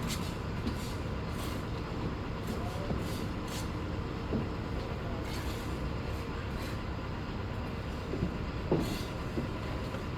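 Steady low mechanical rumble with a faint steady hum, and a few light taps scattered through it.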